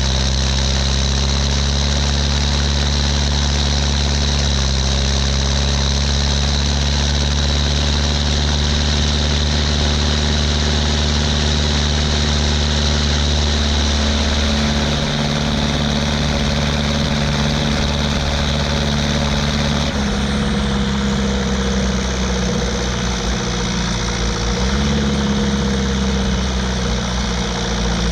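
Ursus 1014 tractor's four-cylinder turbo diesel running on a straight pipe, loud and steady, its engine note stepping a few times as the revs change.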